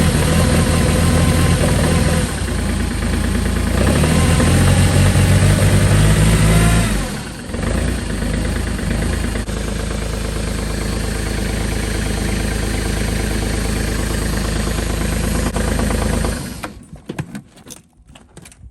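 Kubota L2502 tractor's three-cylinder diesel engine running just after a cold start at about −17 °C, which took two rounds of the glow plugs. Its sound drops and changes about seven seconds in, then runs steadily until it cuts off abruptly near the end.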